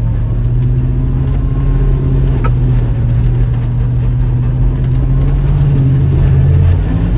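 Jeep engine running steadily under throttle while driving fast through a mud hole, heard from inside the closed cab, with a single sharp click about two and a half seconds in.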